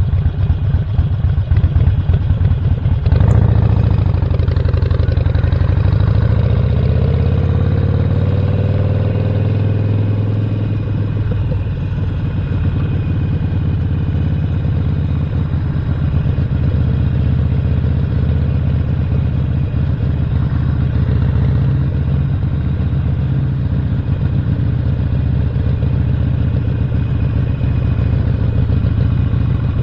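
A Stage 1-upgraded Harley-Davidson Roadster's 1200 cc V-twin engine running at low revs. About three seconds in there is a sharp click, then the revs climb over several seconds and settle into a steady cruise.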